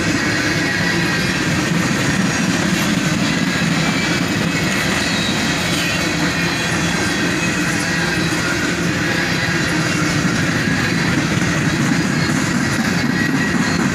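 Freight cars of a CSX manifest train rolling steadily past, steel wheels running on the rails, with faint high ringing from the wheels.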